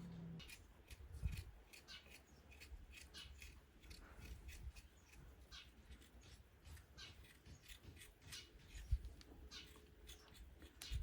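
Faint, irregular crisp snips and rustles, several a second, with two dull low thumps, one about a second in and one near the end.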